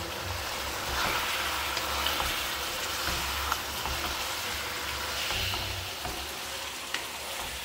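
Mutton and spice masala frying in a karahi: a steady sizzle, with a couple of sharp clicks as it is stirred.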